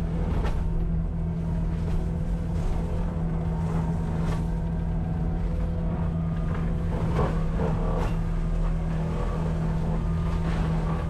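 Cat 259D compact track loader running its diesel engine at steady high speed to drive a forestry mulcher head, with scattered cracks and clatters as the mulcher teeth chew through brush and wood.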